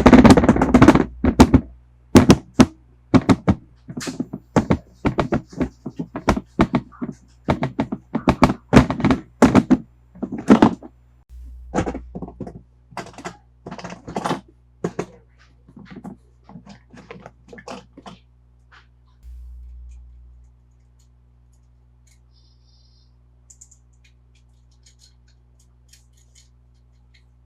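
Toy cars and their packaging being handled, giving a run of sharp knocks and clacks. The knocks are dense and loud for about the first ten seconds, then grow sparser and fainter, dying away by about eighteen seconds.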